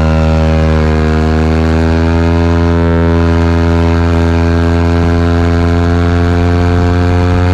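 Motorcycle engine running at steady high revs under load, a loud, even drone that rises slowly in pitch as the bike gathers speed.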